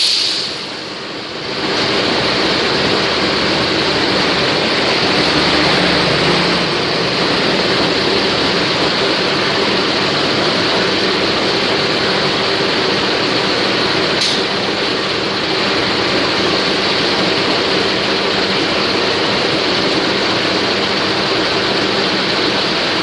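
Passenger train coaches running past close along a station platform: a steady, loud noise of wheels on rails and moving coaches, with a brief dip just after the start.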